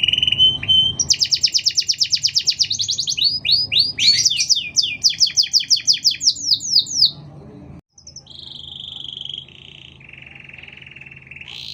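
Domestic canary singing a long, loud song: a held whistle, then fast trills and rows of quick sweeping notes, turning softer after a short break near the end.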